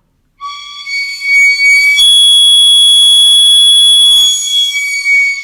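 A loud, high, whistle-like held note that starts about half a second in, jumps to a much shriller pitch for about two seconds in the middle, then drops back to the first pitch. It is a demonstration of a high sound.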